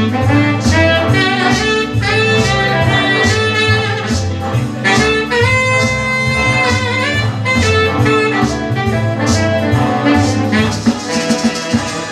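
Soul-funk band playing an instrumental passage with no singing: a horn plays the lead line over a steady bass and beat, holding one long note in the middle.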